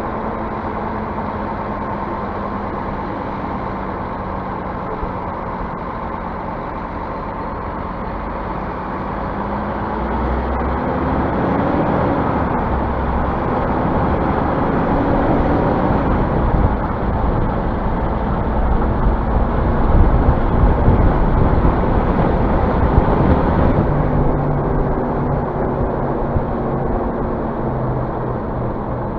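Scania bus diesel engine running, then pulling away: its pitch climbs about ten seconds in, drops as it shifts and climbs again, with low road rumble growing louder through the second half.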